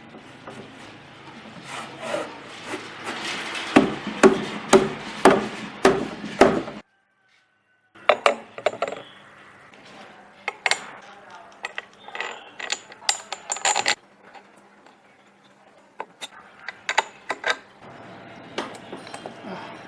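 Workshop handling sounds. First comes a run of sharp knocks about two a second, which stops abruptly about seven seconds in. After a second of silence come scattered clicks and clatter of tools and small parts over a faint steady hum.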